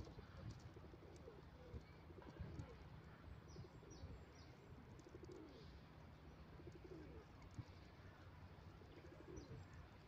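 Faint bird sounds: a few short high chirps, a quick run of them a few seconds in and again near the end, and soft low cooing calls throughout.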